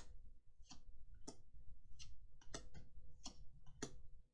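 Trading cards being flicked through and set down one at a time, a series of short crisp clicks at uneven spacing, about two a second, over a faint steady hum.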